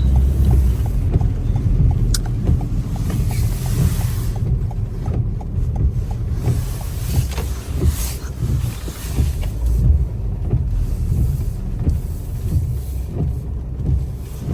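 Low, steady rumble of a car running, heard from inside the cabin while it is manoeuvred into a parking space.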